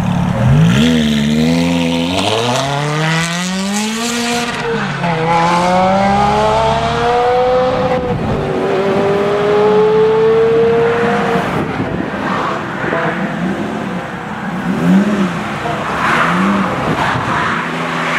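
Ferrari F430 Spider's V8 accelerating hard away, its revs climbing steeply, shifting up a gear about four seconds in and climbing again. Later come several short throttle blips from a car's engine.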